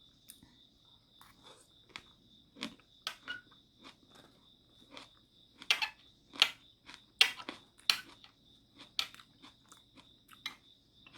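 Close-up eating sounds: chewing and crunching, with irregular sharp clicks that come thickest and loudest in the middle.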